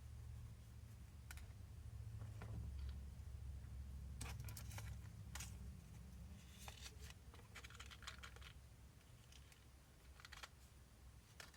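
Faint scattered clicks and light scrapes of small RC shock parts being handled and fitted by hand, over a steady low hum. A cluster of clicks falls around the middle, with a sharper one near the end.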